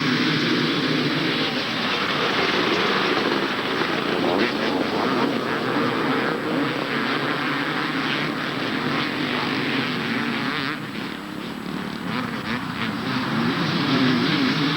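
Several 250 cc two-stroke motocross bikes running together, a steady mixed engine noise that dips briefly about eleven seconds in.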